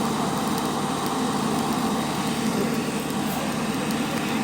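An engine running steadily at a constant speed, with faint irregular crackling in the high end.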